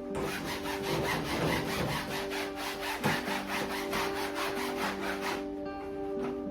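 Scrubbing by hand with quick back-and-forth strokes, several a second, stopping briefly near the end.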